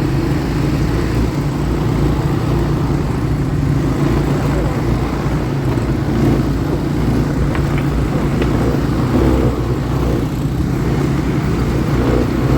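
ATV engine running steadily while the machine is ridden.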